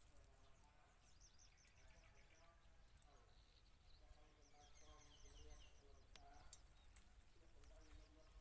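Faint outdoor ambience: small birds chirping in runs of short, quick notes, over a low background hum.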